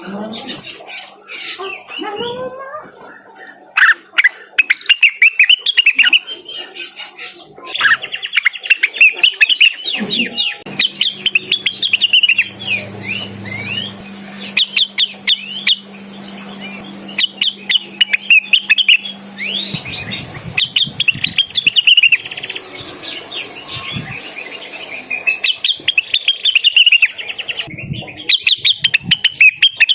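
Cucak wilis leafbird singing loudly in rapid runs of short, sweeping chirped notes, in bouts of several seconds broken by brief pauses: the bird's full song used to call a rival.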